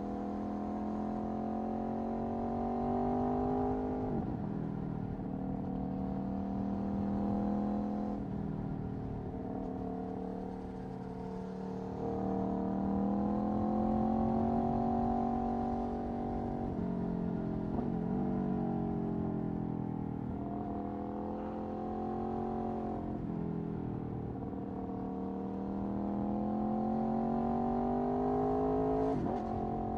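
Aprilia Tuono V4 1100's V4 engine through an Akrapovic racing exhaust, pulling hard under acceleration. Its pitch climbs steadily over a few seconds, then drops sharply at each gear change, several times over.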